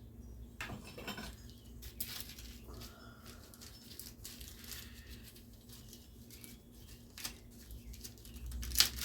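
Scattered light clicks and taps of small metal parts being handled on a Tecumseh small engine, with a sharper knock near the end, over a faint steady hum.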